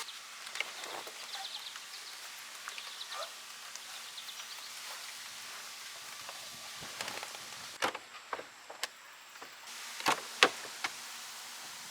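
Quiet outdoor background with a few short, faint high chirps in the first few seconds, then scattered sharp clicks and taps in the second half.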